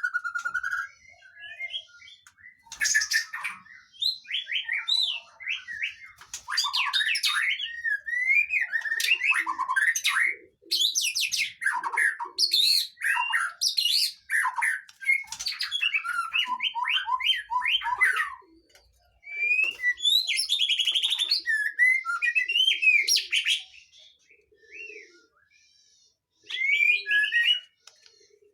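Songbird singing a fast, varied song of sharp whistles, trills and chattering phrases, with brief pauses; a 'pancingan' recording, played to caged birds to stir them into singing.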